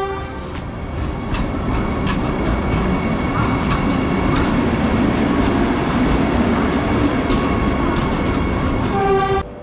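Vande Bharat Express electric train rolling with a steady rumble and repeated clicks of wheels over rail joints. A short horn blast sounds near the end.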